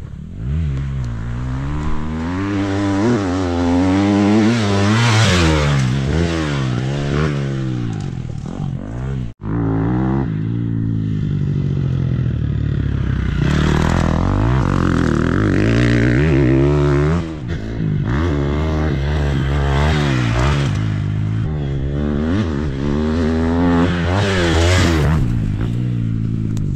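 Motocross dirt bike engine revving hard and easing off again and again, its pitch climbing and dropping with throttle and gear changes as it is ridden. The sound cuts out for a moment about nine seconds in.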